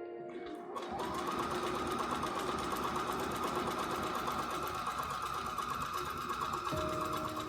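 Bernina Virtuosa 150 sewing machine starting up about a second in and running fast and steady, its motor whine rising as it comes up to speed. Soft background music is heard under it.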